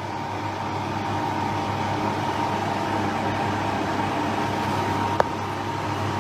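A steady machine hum with a low drone and a faint high tone held throughout, and a single click about five seconds in.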